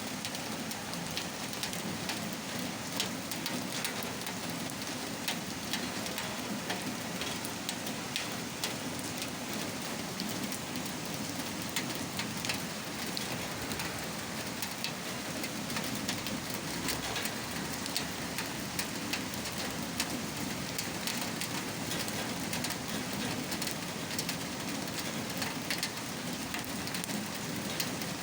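Steady rain falling, with many individual drops ticking sharply on a hard surface over a constant hiss.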